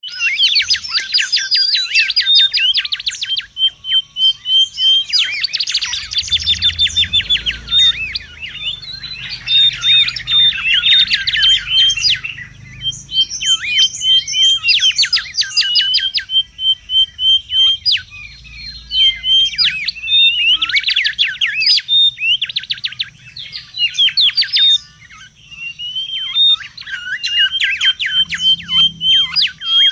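Mangrove whistler singing: phrases of rapid, sweeping whistled notes rising and falling, broken by runs of short, evenly repeated notes, over and over.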